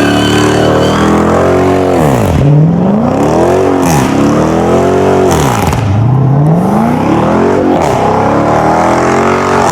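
Performance car engine being revved hard over and over, its pitch climbing and dropping back about five times.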